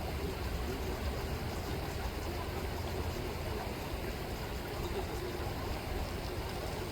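Steady rush and ripple of flowing river water, with no distinct calls or events.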